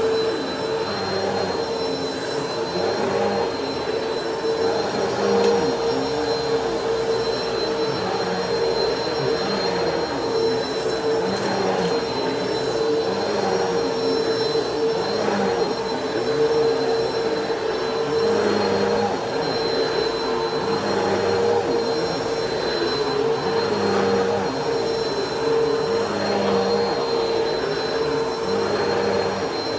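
Bissell Powerforce Helix Turbo upright vacuum cleaner running on carpet: a steady motor whine with a fainter high tone above it, and a low rumble that swells and fades every two to three seconds as the vacuum is pushed and pulled over the carpet.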